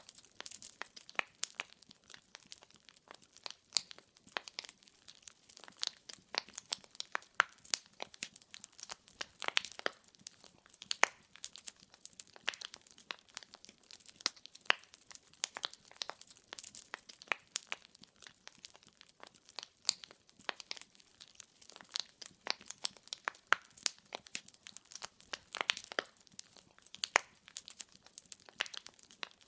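Firewood burning in a fireplace, crackling and popping with dense, irregular sharp snaps over a faint hiss.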